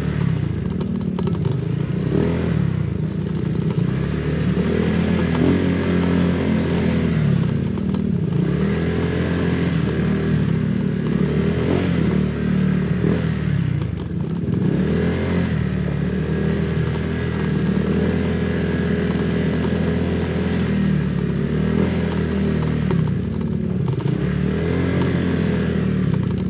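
Honda PCX 160 scooter's single-cylinder engine running under way, its pitch rising and falling every few seconds as the throttle opens and eases off, over a steady rush of road and wind noise.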